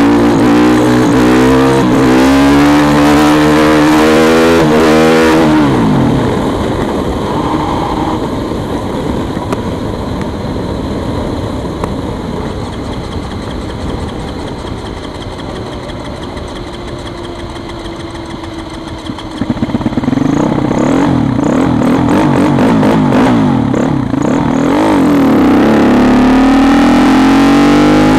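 Husqvarna SM510R supermoto's single-cylinder engine on the move: it revs up hard through the first few seconds, then drops away to a quieter, slowly falling note for about fourteen seconds. After a few sharp pops, the engine pulls hard again, its note rising.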